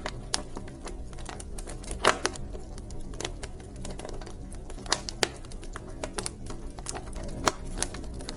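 Wood fire in a fireplace crackling, with irregular sharp pops and snaps over a low steady rumble of burning; the loudest pop comes about two seconds in.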